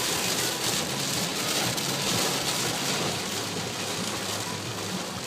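Rain pouring down in a steady, loud hiss during a thunderstorm.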